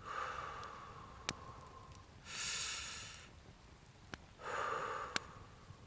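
A man breathing close to the microphone and sniffing: a breath out, a sharp sniff in about two seconds in, then another breath out. A few faint clicks sound in between.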